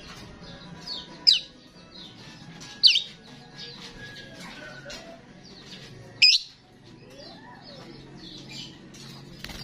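Starling singing: a steady run of high, chattering chirps, broken by loud, sharp calls that sweep down in pitch, about a second in, near three seconds, past six seconds and again at the end.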